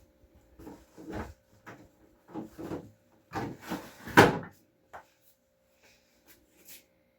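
Food containers and a refrigerator drawer being handled while the fridge is restocked: a run of knocks and plastic rustles, the loudest about four seconds in, then a few faint clicks.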